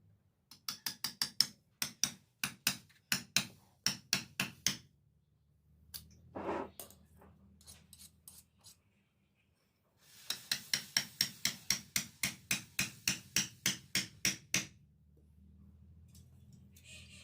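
Hand hammer striking a steel dao blade forged from a car leaf spring: two runs of quick ringing blows, the second a steady run of about four a second, with a short scrape and a few light taps in the pause between.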